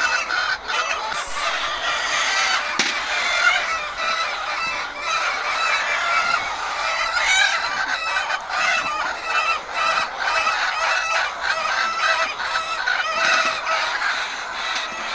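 Many chickens clucking and squawking together in a dense, unbroken chorus.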